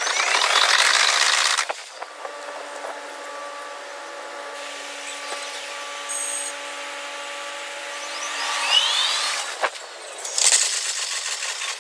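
Train sound reworked into a maglev-style linear-motor whine: a loud rush with a whine gliding up in pitch for the first second and a half, a steady hum of several tones, then rising whines and another loud rush near the end.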